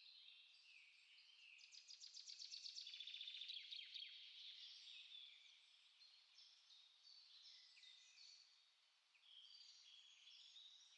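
Several small songbirds chirping and warbling together, faint, with one bird's fast trill of rapid repeated notes rising to the loudest point a couple of seconds in.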